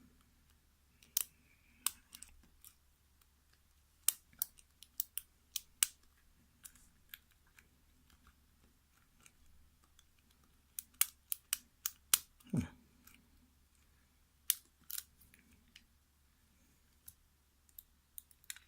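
Metal lock pick and tension wrench working the pins of a mortise cylinder lock: sharp, irregular clicks and ticks, some coming in quick clusters.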